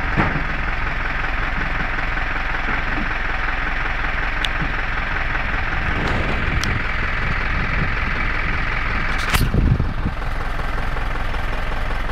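Vehicle engine running steadily, with a few light clicks and a louder knock about nine seconds in.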